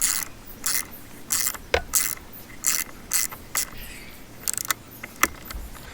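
A metal hand tool scrapes and clicks in short, irregular strokes as a nut or screw is run down onto the outboard motor, with a few sharper clicks among them.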